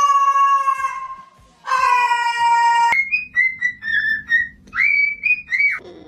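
Parrot whistling: two long held notes, each about a second, then a quick run of short chirpy whistles that slide up and down in pitch.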